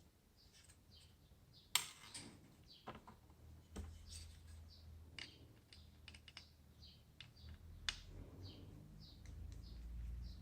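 Faint, scattered clicks and taps of something being handled, the sharpest about two seconds in and near eight seconds. A small bird chirps repeatedly in the background.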